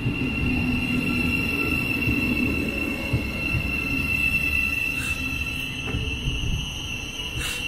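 Class 717 electric multiple unit drawing into the platform: a steady rumble of wheels on rail under a high squeal that is held throughout.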